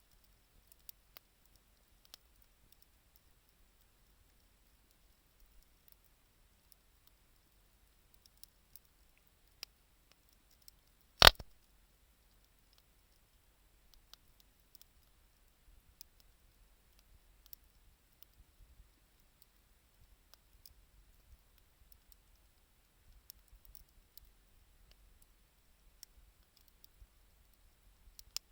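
Wood fire crackling: scattered faint clicks and one loud sharp pop about eleven seconds in.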